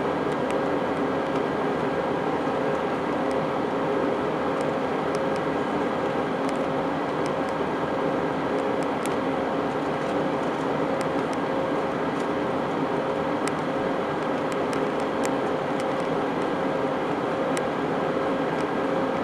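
Steady drone of engine and airflow noise inside the passenger cabin of an Airbus A320-232 in flight, with a constant hum over the rush.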